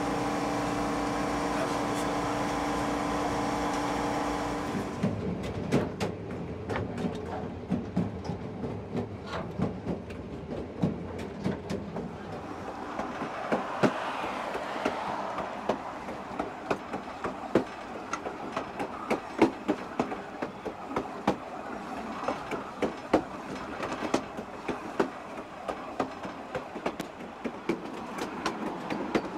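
Napa Valley Wine Train rolling along the track. For the first few seconds there is a steady hum with several held tones. From about five seconds in, the wheels click and knock irregularly over the rails above a continuous rolling noise.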